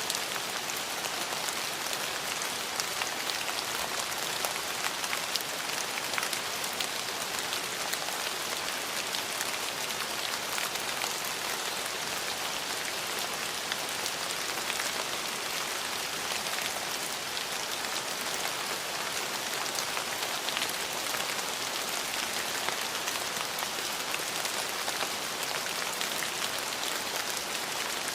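Steady rain falling, with many fine drop ticks on a hard surface.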